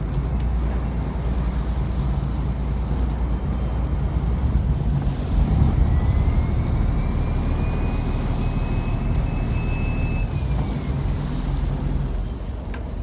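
Fishing trawler's diesel engine running steadily. A high whine rises about six seconds in, holds, and drops away after about ten and a half seconds.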